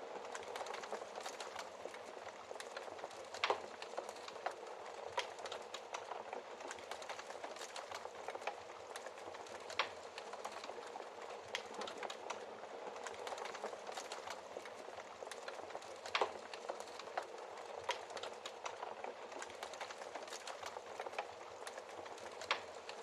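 Wood fire burning in a fireplace: a steady soft hiss of flames with constant crackling and occasional sharper pops, the loudest about 3.5, 10, 16 and 22 seconds in.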